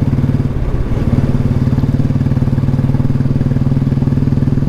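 Royal Enfield Bullet's single-cylinder engine running steadily while the motorcycle is ridden along the road, with a brief dip in engine note about half a second in.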